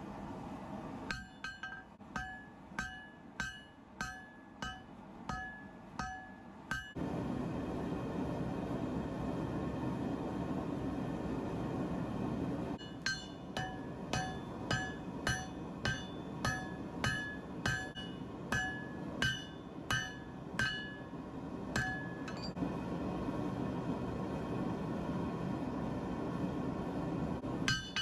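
Hammer blows on a hot Damascus knife blank on an anvil, about two a second, each ringing. There are two bouts of hammering, with a steady rushing noise between them.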